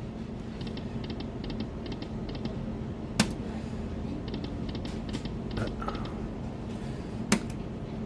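Aristocrat Buffalo slot machine running its reels, with faint high electronic ticks in short repeated groups over a steady low hum. Two sharp clicks come about three seconds in and again near the end.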